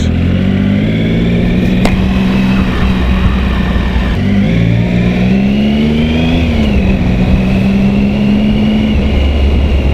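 Motorcycle engine heard from the rider's position while filtering through traffic, with wind noise. It holds steady revs, drops about four seconds in, revs up briefly and settles again.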